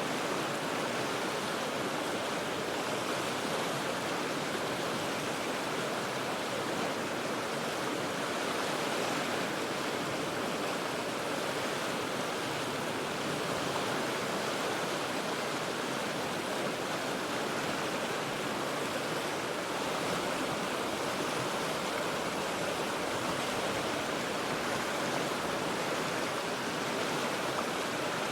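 The Cheat River rushing over rocks, heard from well above the water: a steady, even roar of moving water.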